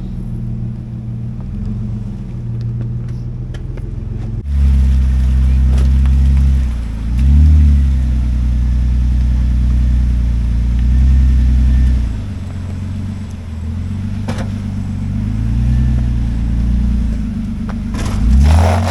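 An off-road 4x4's engine pulling the vehicle along a snowy trail, its revs rising and easing off several times with the throttle. The sound turns suddenly louder and deeper about four and a half seconds in. A short, sharp noise comes near the end.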